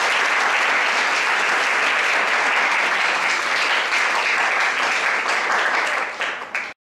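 Lecture audience applauding steadily, cutting off suddenly near the end.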